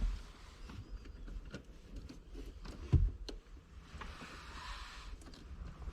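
A panel being pulled loose by hand: scattered clicks and knocks, with one heavier thump about three seconds in.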